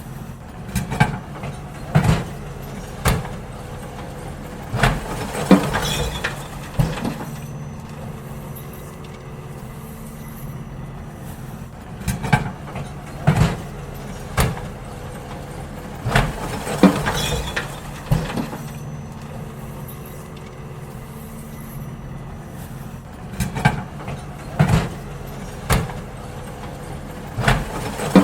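Garbage truck engine running steadily, with repeated clusters of loud metallic clanks and bangs as wheelie bins are lifted, tipped and knocked out into the hopper.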